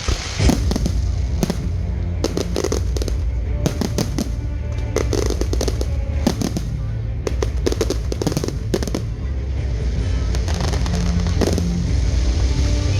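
Fireworks going off in a rapid string of bangs and crackles throughout, with music playing underneath.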